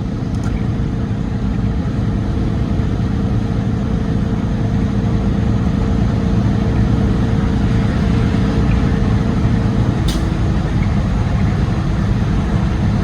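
Steady drone of a semi truck's engine and road noise inside the cab while driving. A faint steady hum drops out about ten seconds in, together with a single brief click.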